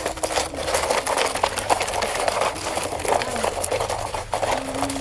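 Dense, irregular crackling and scraping, many small clicks in quick succession.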